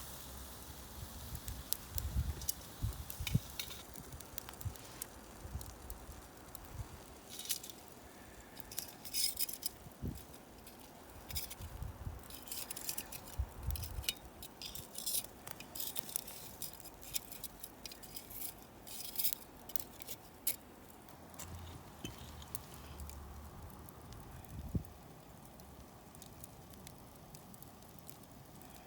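Barbecue over a wood fire: scattered clinks, taps and crackles, with occasional low thumps.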